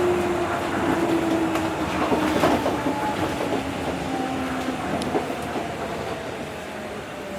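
Tokyo Monorail train running on its rubber tyres along the guideway beam, its traction motor whine falling slowly and steadily in pitch as the train slows, over a steady rumble with a few faint clicks.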